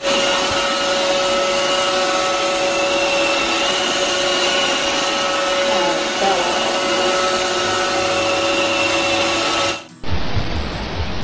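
Vacuum cleaner running steadily, a loud whooshing motor noise with a constant whine; it cuts off abruptly near the end and a different rushing noise follows.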